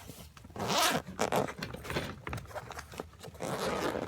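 Several short rasping scrapes, about a second apart.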